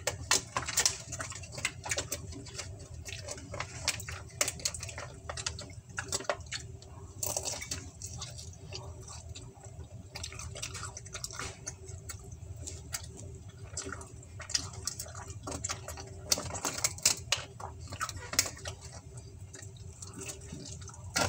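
A person chewing pizza close to the microphone: irregular wet mouth clicks and smacks, with a steady low hum underneath.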